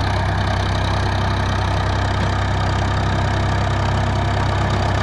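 Tractor engine running steadily under load, a deep even drone with no change in speed.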